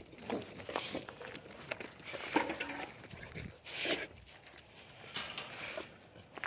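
Faint, scattered short animal sounds from the wolves, brief vocal noises mixed with movement.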